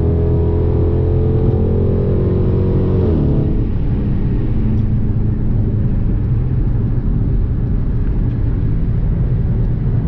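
Hemi V8 car engine accelerating, holding high revs for about three seconds, then the revs drop off. After that it settles into a steady lower rumble while cruising.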